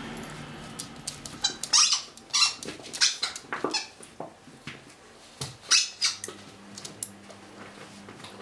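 A dog chewing a squeaky toy, squeezing out a run of short, high squeaks, with the loudest ones about two, three and six seconds in.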